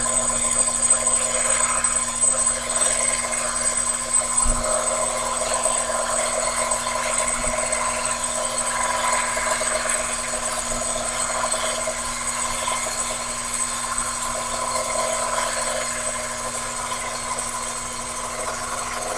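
Sherline benchtop lathe running with a steady high whine while a high-speed steel tool takes a pass along an aluminium workpiece turned between centres, the cutting noise swelling and easing as the cut goes.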